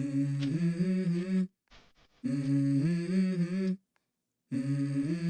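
A voice humming a melody in three short phrases with silent gaps between them, the vocal intro of a background song.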